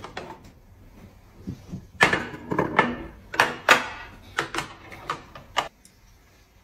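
Ceramic plates and tableware knocking and clinking on a glass tabletop as a platter is set down and dishes are moved: about nine sharp knocks over three to four seconds, starting about two seconds in.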